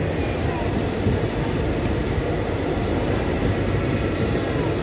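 Express passenger train coaches rushing past at speed: a steady, loud rumble and rush of wheels on rail.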